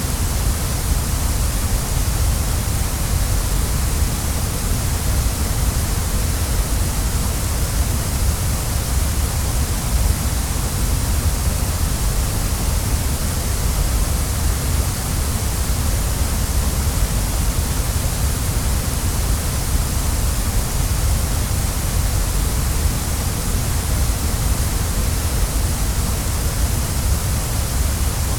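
Waterfall: steady rushing and splashing of falling water, a constant deep rumble under a bright hiss.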